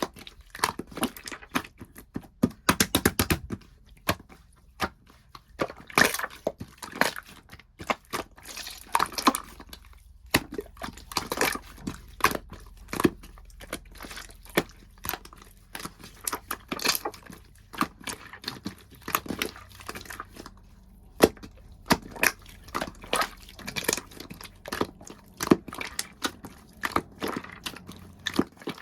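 Clear slime being squished and worked by hand: irregular wet clicks, pops and crackles, many in quick succession.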